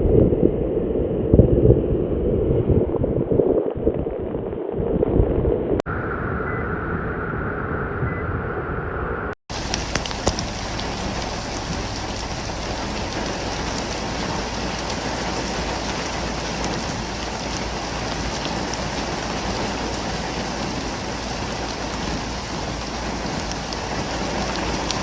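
Heavy rain falling, heard in a series of short cuts. For the first few seconds it sounds muffled and rumbling; a brief, thinner hiss follows. From about nine seconds in there is a steady, full rain hiss.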